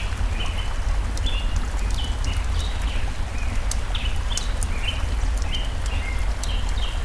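Campfire crackling with scattered sharp pops, over the steady low rush of a stream, while small birds chirp repeatedly with short notes, several of them falling in pitch.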